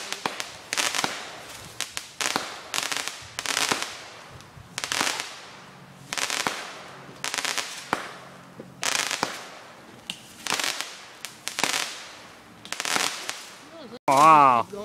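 Consumer fireworks cake firing in quick succession: a sharp bang or a short cluster of cracks about once a second, each trailing off in crackle. A loud wavering tone cuts in briefly near the end.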